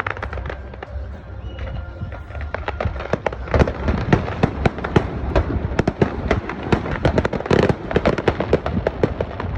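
Fireworks display: a rapid string of sharp bangs, pops and crackles over a low rumble, growing much denser about three seconds in.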